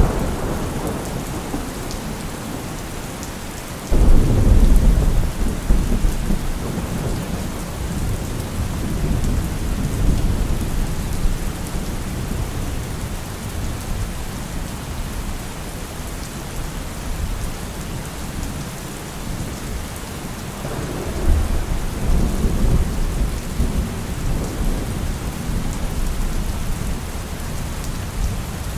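Heavy, steady rain with thunder: a sudden loud thunderclap about four seconds in that rumbles on for several seconds, and a second rolling rumble about two-thirds of the way through.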